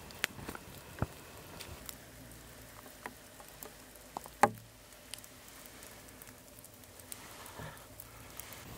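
Water dripping from wet pine needles onto a soaked sleeping pad and shelter floor: irregular, scattered drips, one louder plop about halfway through.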